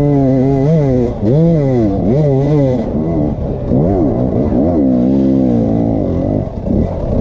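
Dirt bike engine revving hard, its pitch swinging up and down over and over as the throttle is worked on a rough climb.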